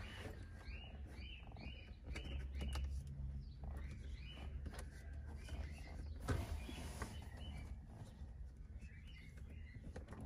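Small birds chirping: runs of short high notes, several a second, over a low rumble, with a single sharp click about six seconds in.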